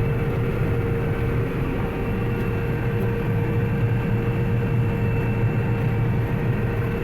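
Combine harvester running steadily while cutting wheat, heard from inside the cab: a constant low drone with a steady whine on top. The machine is running normally, with no issues.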